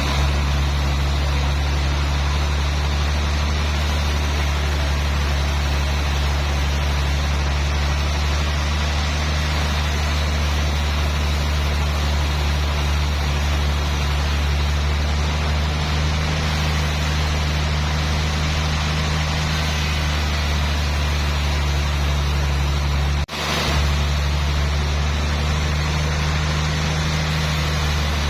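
Sawmill machinery running with a steady low drone that does not change, broken once by a brief sharp gap about three quarters of the way through.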